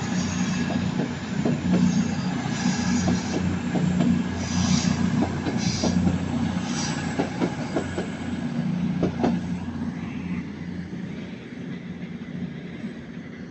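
A train moving along the track: wheels clicking over rail joints with several short high wheel squeals, over a steady low drone, the whole sound fading away over the last few seconds.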